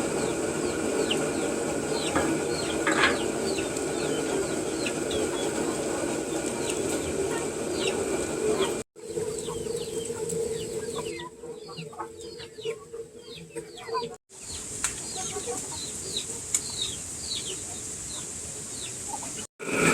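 Chickens calling: many short, high calls overlapping over a steady hum. The sound breaks off briefly three times.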